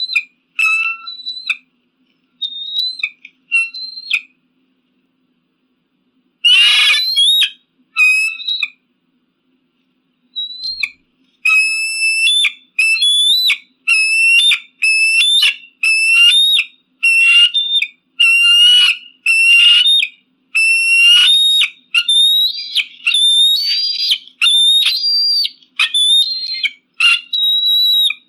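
Eagle calling in high, thin whistled notes. A few scattered calls come first, then one harsher call about six seconds in. From about eleven seconds there is a steady run of repeated whistled notes, nearly two a second.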